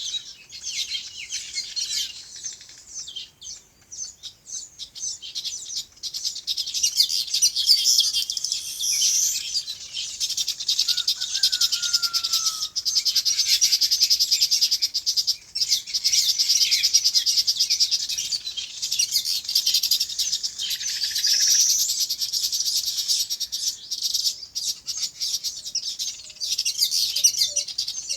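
A chorus of many small birds chirping continuously, with rapid high chirps overlapping throughout and one lower, falling call about halfway through.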